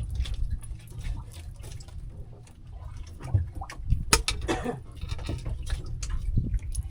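Water splashing and lapping against a small fishing boat, over a steady low rumble, with scattered clicks and knocks; the sharpest knock comes a little past four seconds in.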